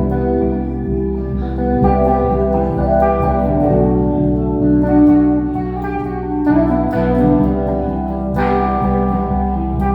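A band jamming an instrumental: held chords over a steady beat, with guitar and organ-like tones.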